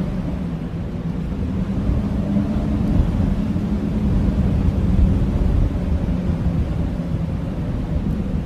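Blizzard wind blowing in a steady low rumble, with a faint held howling tone.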